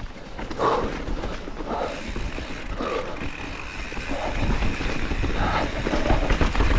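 Mountain bike riding down a wet, rocky trail: tyres rumbling and clattering over rock, with the chain and frame rattling, and a steady low rumble underneath. It gets louder in the second half.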